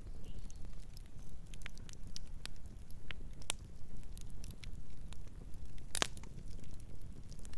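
Wood fire crackling: a low steady rumble of flames with scattered sharp pops and snaps, one loud snap about six seconds in.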